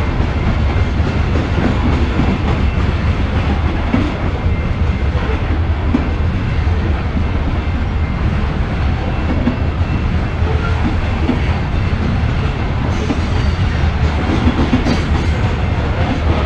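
Freight train of covered hopper cars rolling past close by, a loud, steady wheel-on-rail noise weighted heavily toward the low end.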